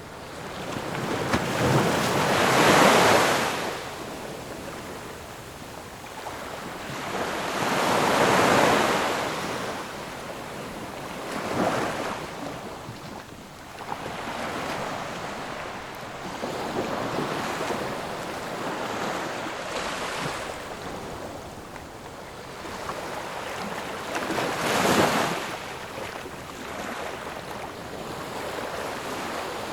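Ocean waves breaking and washing ashore, rising and falling in surges every few seconds. The biggest waves come about 3 and 8 seconds in, and a sharper one comes near the end.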